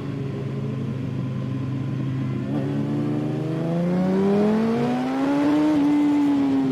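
Kawasaki ZX-6R inline-four motorcycle engine on track, first holding steady revs, then accelerating hard with its pitch climbing for about three seconds before levelling off near the end.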